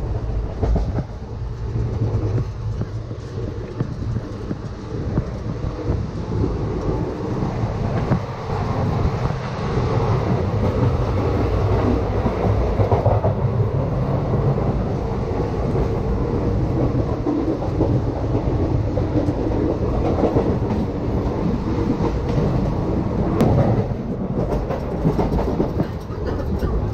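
Indian Railways passenger train running, heard from inside the coach: a steady low rumble of the carriage with wheels clattering on the track.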